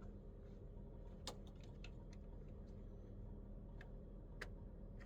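Faint scattered light clicks, a few irregular ticks about a second or more apart, over a steady low hum.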